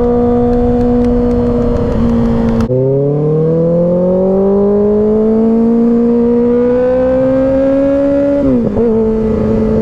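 2024 Kawasaki Ninja ZX-6R's 636 cc inline-four engine under way. It holds a steady pitch, drops sharply in pitch a little under three seconds in at a gear change, then rises steadily as the bike accelerates through the gear. About eight and a half seconds in it drops again at the next shift and settles at a steady pitch.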